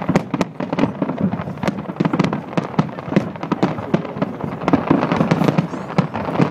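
Fireworks display: a dense barrage of aerial shells bursting, several loud bangs a second overlapping one another with no pause.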